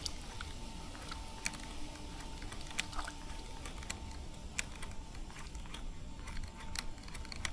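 Faint, irregular light clicks and ticks, a few a second, with a thin steady high tone running underneath.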